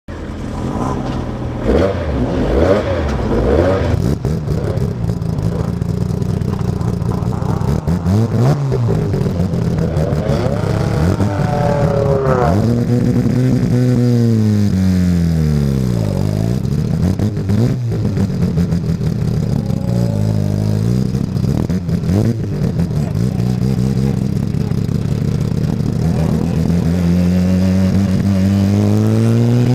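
Rotary-engined race car running hard on track: the engine note climbs steadily under acceleration. Around halfway it drops sharply through the gears as the car brakes, then climbs again, with some mechanical clatter.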